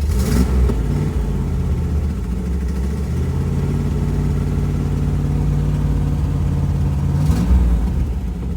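V8 engine of a 1978 MGB, an Oldsmobile-sourced 3.5-liter aluminum V8 with a custom stainless steel exhaust, running at idle. The throttle is blipped briefly just after the start and again near the end.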